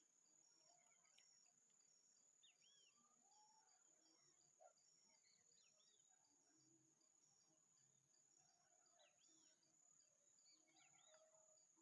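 Faint natural outdoor ambience: a steady high insect whine and insect pulses at about one and a half a second, with scattered short bird calls.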